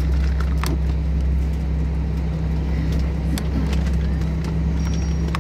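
Steady low drone of an Airbus A321, unchanging in pitch, with a few faint clicks over it.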